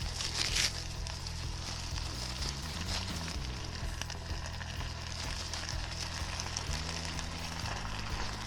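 Food sizzling in a hot pan with a steady crackling hiss, over background music; a brief louder hiss about half a second in.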